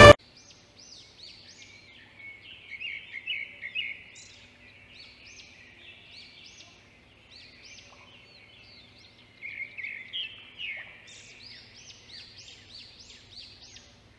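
Birds chirping and calling in short repeated notes, faint, growing busier in two spells.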